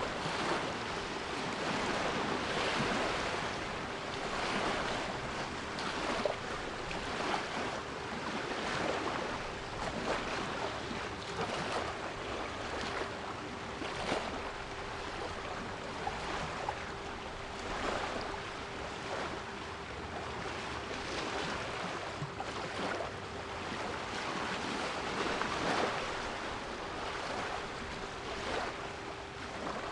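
Sea waves washing and breaking in an irregular series of swells, with a steady 396 Hz pure tone held underneath.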